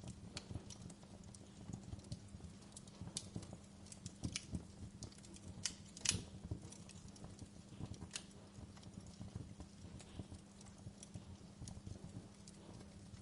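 Wood fire crackling in a fireplace: irregular sharp pops and snaps over a low steady hum, the loudest pop about halfway through.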